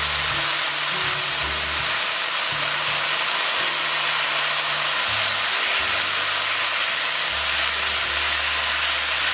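Mung bean sprouts and shredded chicken sizzling in a hot pan as they are stir-fried over high heat, a steady loud hiss.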